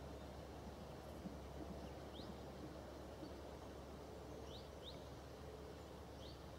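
Faint woodland ambience: a small bird gives a few short, high, quickly rising chirps, spaced a second or two apart, over a steady low hum.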